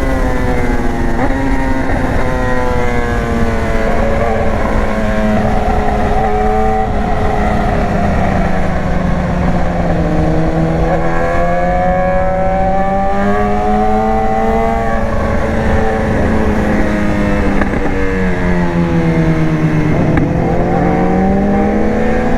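BMW S1000R's inline-four engine heard from the rider's seat, its revs sinking at first, climbing from about eight seconds in, easing off again and rising once more near the end. A steady low rush of wind on the microphone runs beneath it.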